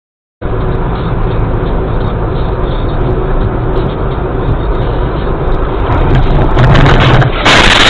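Car driving, with engine hum and road noise, heard through a dashcam microphone. Near the end it gives way abruptly to a louder, harsher rush of noise.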